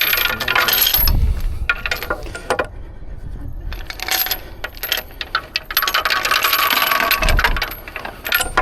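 Steel rigging chain clinking and rattling as it is handled, in a dense clatter of metal links at the start and again from about four to seven and a half seconds in.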